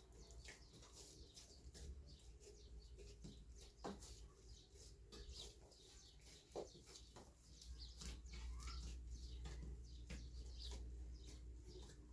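Faint small birds chirping in scattered short calls, with a low steady rumble underneath.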